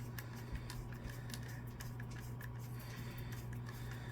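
Small scattered clicks and taps of the Xbox One controller's plastic parts and tools being handled, over a steady low hum.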